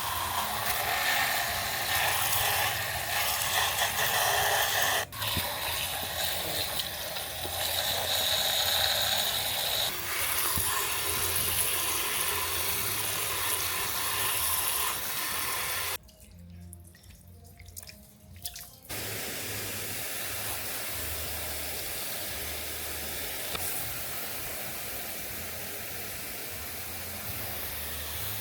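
Water running steadily, as from a tap onto a sink, in several cut-together stretches, quieter for a few seconds about two-thirds of the way in.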